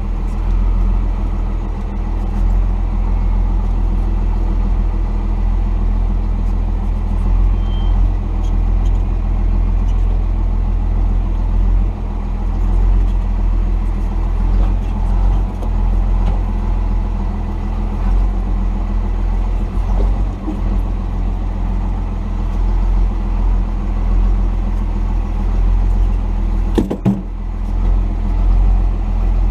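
The 1990 Dodge D250 pickup's Cummins turbo-diesel inline-six running steadily with a heavy low drone. There are a couple of sharp knocks near the end.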